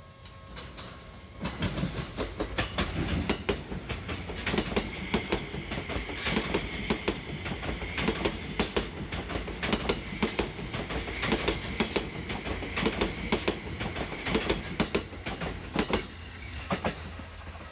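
E261-series Saphir Odoriko electric train passing at close range, its wheels clattering over the rail joints for about fifteen seconds before the last car goes by.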